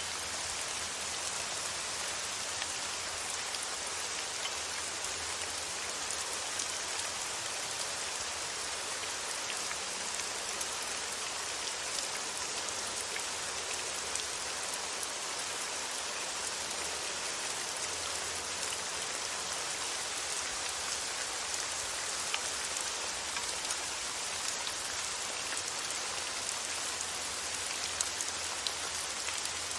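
Steady rain falling: an even, unchanging hiss dotted with faint ticks of individual drops.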